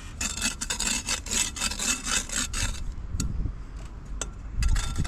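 Steel trowel scraping tile adhesive across the backs of tiles, priming them, in quick rasping strokes for nearly three seconds, followed by a few knocks.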